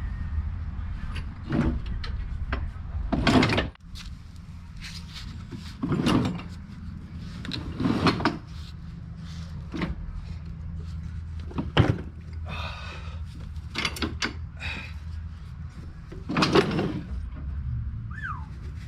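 Tools and metal mower-deck parts being handled during disassembly: a string of clanks and knocks, about six louder ones spread through, over a steady low rumble.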